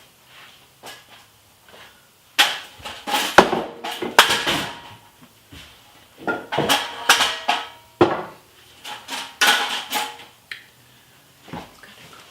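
Kitchen clatter: hard knocks and clinks of dishes and pans, some with a short ring, coming in clusters from about two seconds in.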